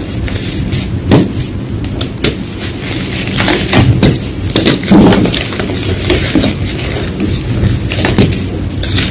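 Blocks of gym chalk being crushed, an irregular run of crisp crunches and crackles with a few louder crunches among them.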